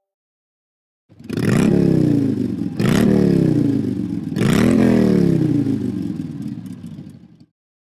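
The iPhone's classic "Motorcycle" ringtone: a motorcycle engine revved three times, each rev climbing quickly in pitch and then winding down. It starts about a second in and stops shortly before the end.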